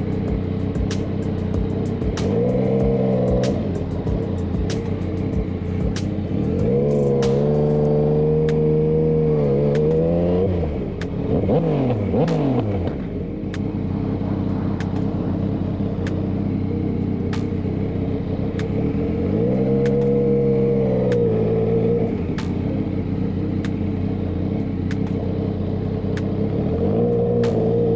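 Vehicle engines idling, with an engine revved up and let back down several times; the longest rev lasts about four seconds. Around the middle a vehicle goes by with a falling pitch.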